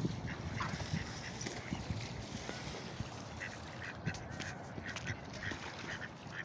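A flock of waterfowl on a lake calling, many short calls overlapping and repeating without a break, as the birds are being fed.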